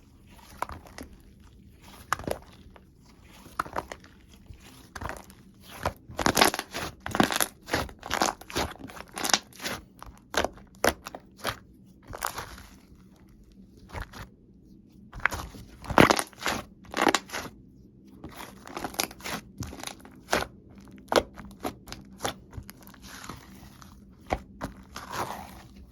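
Butter slime being squeezed and poked by hand, giving irregular clicky pops and crackles as air pockets burst, in clusters with short pauses between them.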